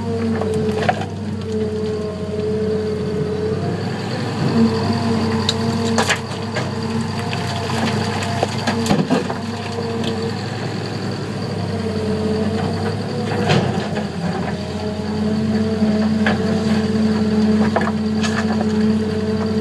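Heavy diesel engines of an excavator and a wheel tractor-scraper running steadily while sandstone is loaded, with sharp knocks and cracks of rock and bucket several times, the clearest about six, nine and thirteen seconds in.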